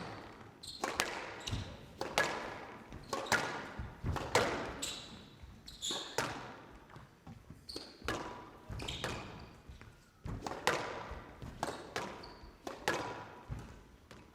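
Squash rally: the ball cracks off the rackets, front wall and floor about once or twice a second, each hit ringing out in the hall.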